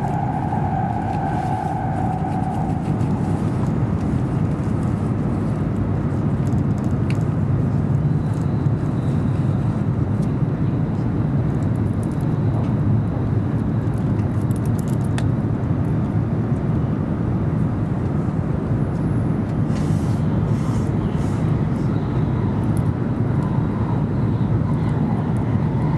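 E7 series Shinkansen heard from inside the passenger cabin, running at speed with a steady low rumble of wheels on rail. A high whine fades away in the first few seconds.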